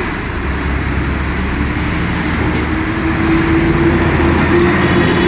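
A motor vehicle's engine running steadily with a low hum and road noise, one tone in it climbing slightly in pitch from about halfway through.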